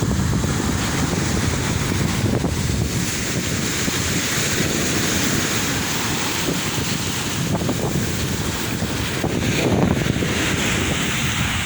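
Sea waves washing ashore in a steady surging hiss, with wind buffeting the microphone in a low rumble.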